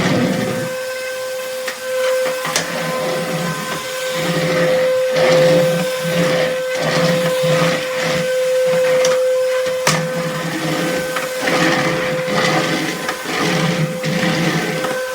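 Cordless stick vacuum cleaner running with a steady whine, its noise swelling and dropping as it is worked. A few sharp clicks come through, one near the start and one partway through.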